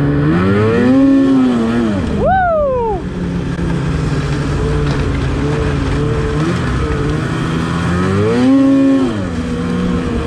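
Snowmobile engine under throttle, revving up and back down twice with a steady run between, and a shout of "Woo!" over the first rev.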